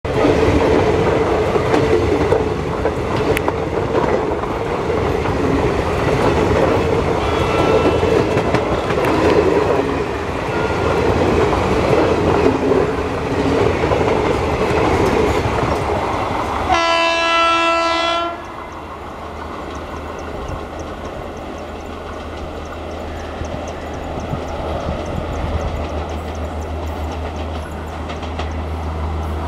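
Train wheels running over rail joints close by with a loud, steady rumble and clatter. About 17 s in, an electric locomotive horn sounds one blast of about a second and a half. The noise then falls to a quieter rumble, and a low steady hum comes in near the end as an Indian Railways WAP-7 electric locomotive draws close.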